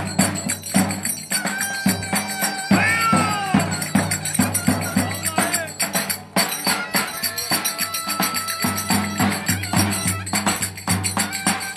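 Turkish folk dance music: a fast, even beat of drum and jingling tambourine-like percussion, with a melody line that slides up and down in pitch.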